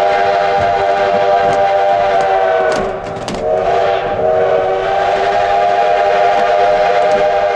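Steam locomotive's chord whistle sounding two long blasts, with a short break about three seconds in. These are the opening blasts of a grade crossing signal (long, long, short, long).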